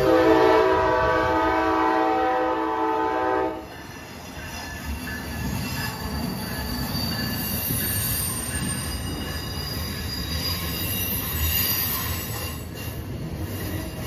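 Amtrak ACS-64 electric locomotive's air horn sounding one steady chord for about three and a half seconds, then cutting off abruptly. The train then rolls past with a steady rumble and high-pitched wheel squeal from its Amfleet coaches.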